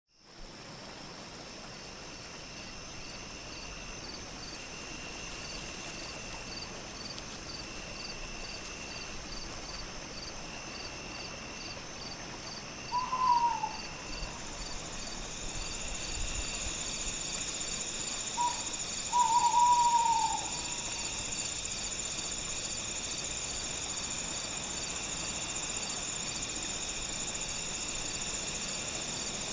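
Crickets chirping in steady, overlapping high trills, one of them pulsing in quick regular beats, over a faint breeze. An owl hoots twice, a short falling call about halfway through and a longer double call a few seconds later, the loudest sounds.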